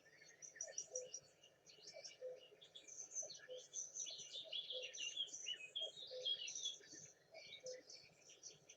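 Several birds chirping and singing together in a dense mix of short high calls, with a short lower note repeating about once a second underneath.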